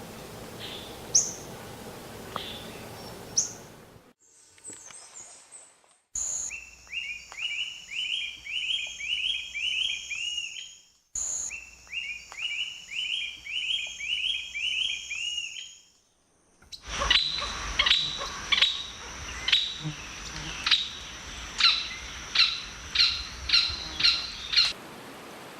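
Songs and calls of several different wild birds, one after another, with abrupt cuts between them. First come a few sharp, high, falling calls. Then comes a song of quick rising notes, given twice, and near the end a fast series of sharp, clear notes at about two a second.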